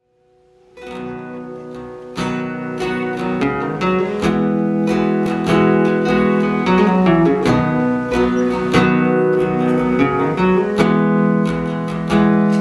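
Acoustic guitar strumming chords as a song's instrumental intro, starting about a second in and growing fuller and louder soon after.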